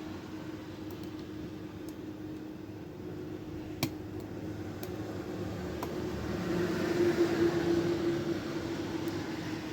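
Small clicks from lock picks working the pins of a pin-tumbler padlock, one sharper click about four seconds in, over a steady background hum. A rise in hiss comes about seven seconds in.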